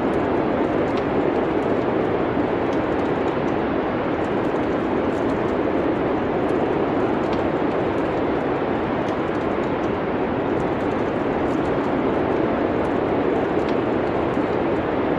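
Steady low wind noise with a wood fire crackling faintly throughout: small, scattered pops over the even rush.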